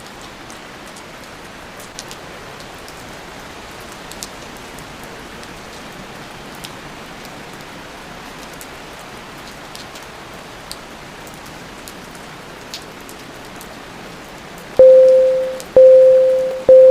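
Steady rain with occasional drop ticks. Near the end come three loud electronic beeps at one pitch, about a second apart: a pomodoro timer's countdown to the end of the work session.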